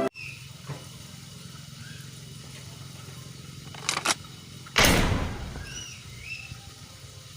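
A steady low hum with a few short chirps, two quick clicks a little before four seconds in, then one loud sudden burst about five seconds in that fades over most of a second.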